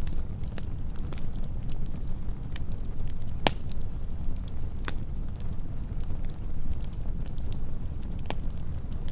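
Campfire crackling with scattered sharp pops over a low steady rumble, the biggest pops about three and a half and five seconds in. A cricket chirps in short high notes about once a second.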